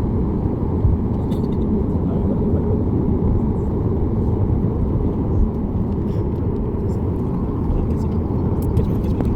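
Steady low rumble inside the cabin of a Boeing 737 MAX 8, the noise of its CFM LEAP-1B engines and the airflow heard from a passenger seat.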